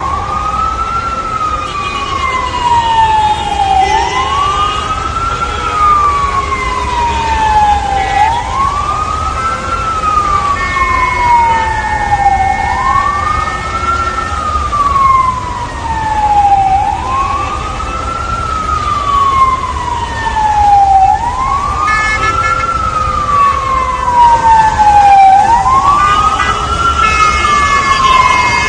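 A wailing siren, its pitch rising quickly and then falling slowly, repeating about every four seconds, over a low steady rumble.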